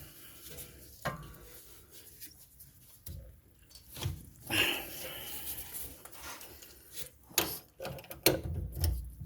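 Metal hand tools and suspension parts handled in scattered clinks, knocks and scrapes, as the tie-rod-end puller and castle nut come off.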